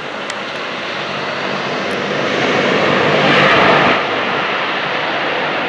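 Fixed-wing airplane passing close by, its engine noise building to a peak and then easing off.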